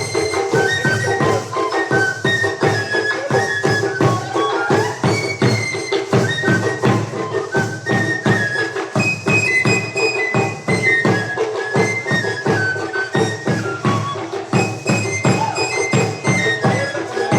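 Traditional Tabasco dance music: a flute melody of held notes stepping up and down over a fast, steady drum and rattle beat.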